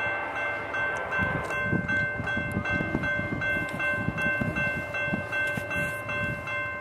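Empty coal train led by two EMD SD70ACe diesel locomotives approaching, its engines running, under a high ringing tone that repeats about two and a half times a second.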